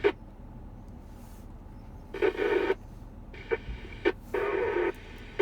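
Yaesu FTM-400XDR mobile radio receiving the ISS FM repeater downlink between contacts. It gives a low steady hiss, broken by short bursts of signal from brief key-ups about two and four seconds in, and squelch clicks at the start and end.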